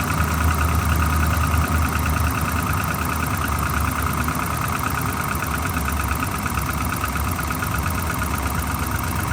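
A 2011 pickup truck's V8 engine idling steadily with a misfire on cylinder number 7. A fast, regular light ticking runs through it, which the owner puts down to the lifters.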